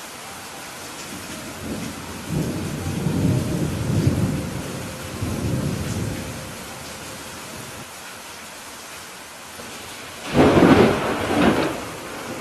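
Steady rain with thunder: a low rolling rumble from about two to six seconds in, then a loud, sudden thunderclap near the end.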